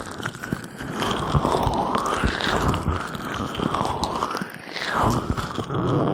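Gloved hands rubbing oil over a binaural microphone's ears: slick, crackling, squelchy friction with slow, rhythmic strokes that swell and sweep in pitch about once a second.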